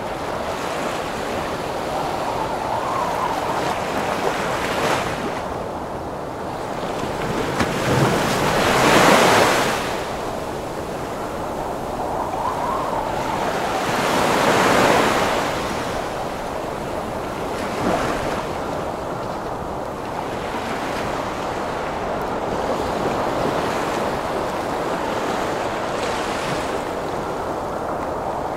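Heavy surf in a wind storm: a constant wash of breaking waves and wind, swelling into two big wave crashes about nine and fifteen seconds in, with smaller surges between. A faint whistle of wind rises and falls twice.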